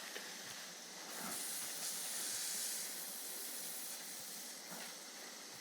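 Water spraying from a garden hose, a steady hiss that swells a little between about one and three seconds in.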